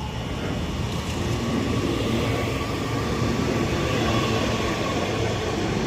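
Northern Class 331 electric multiple unit running into the station: a steady rumble and hiss with a faint electric whine, growing a little louder.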